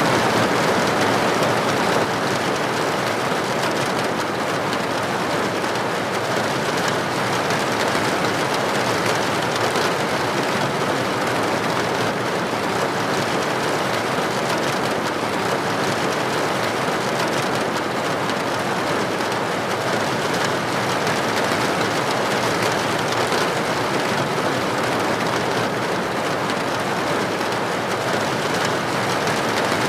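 Rain falling steadily: an even, dense hiss of rainfall that holds the same level throughout.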